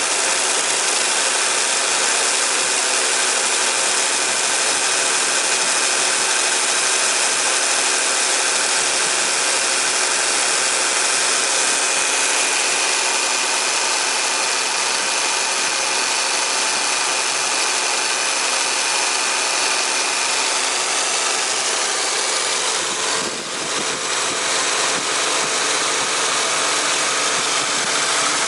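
Honda Accord engine running with its 10PA17C air-conditioning compressor engaged, a steady loud mechanical noise coming from inside the compressor. The compressor is loose and worn, and pumps weakly. The noise dips briefly about three-quarters of the way through.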